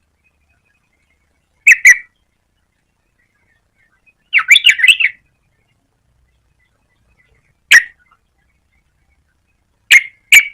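Yellow-vented bulbul giving bursts of sharp chirping call notes: a pair of notes, then a quick run of about six, then a single note, then two more near the end, with silence between the bursts.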